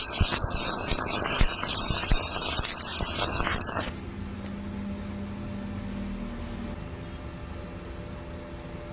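Welding arc crackling and hissing, which cuts off suddenly about four seconds in, leaving a quieter steady hum.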